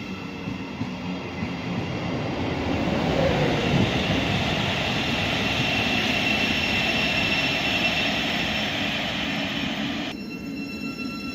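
Electric passenger train pulling away from the platform: the rushing noise of wheels on rail builds with a high steady whine, then drops away abruptly about ten seconds in.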